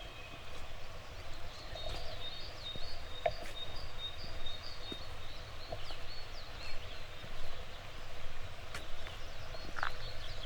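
Songbirds singing, a dense run of short, high chirps and whistled notes with one held high note in the first half, over a low background hiss. Occasional sharp clicks, likely the walker's footsteps on the path.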